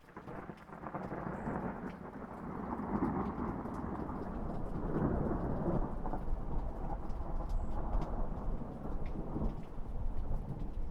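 A long roll of thunder over rain: it breaks in suddenly and rumbles on for about ten seconds, with raindrops pattering under it.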